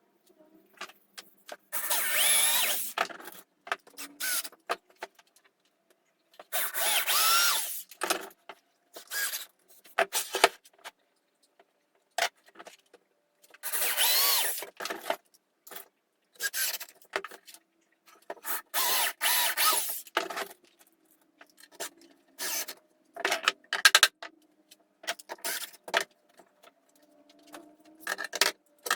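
Power drill running in repeated short bursts of a second or so, its motor pitch wavering as the trigger is worked, with clicks and knocks of handling between bursts.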